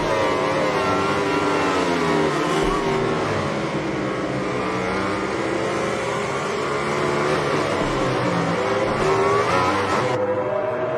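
Racing motorcycle engines running hard, their pitch repeatedly rising and falling as they rev and pass, with a sharp rise in revs near the end.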